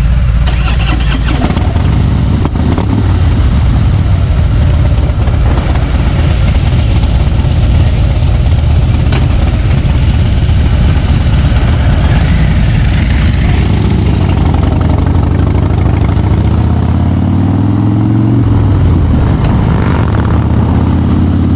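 Harley-Davidson V-twin motorcycle engine running steadily under way. About three-quarters of the way through, its pitch rises and then drops once.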